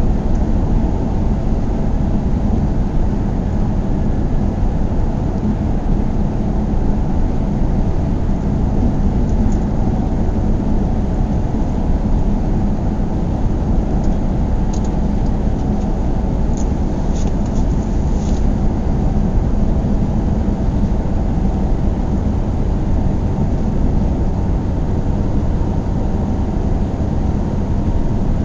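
A car driving at steady speed: a constant rumble of engine and tyre noise on the road, with no change in pace.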